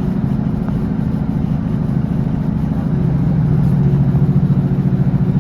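Diesel engine of a class 156 Sprinter train running, a steady low drone with a fast even pulse that grows a little louder about three seconds in.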